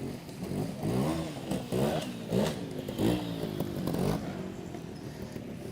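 Trials motorcycle engine blipped in a string of short revs, each rising in pitch, as the rider works the bike through a section, then settling back to a lower steady run near the end.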